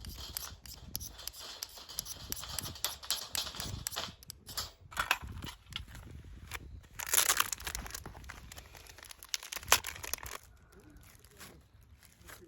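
Crinkling and rustling of something being handled, with many short clicks and knocks. A louder rustle comes about seven seconds in and a sharp knock near ten seconds, then it quiets down.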